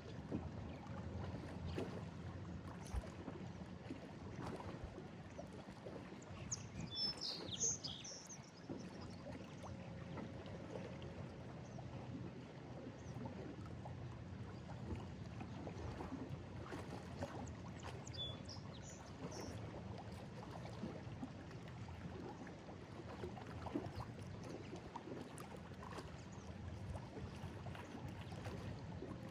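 Lake Erie waves lapping and splashing against a stone breakwall, a steady low wash of water. A bird chirps briefly a couple of times, about a quarter and two-thirds of the way through.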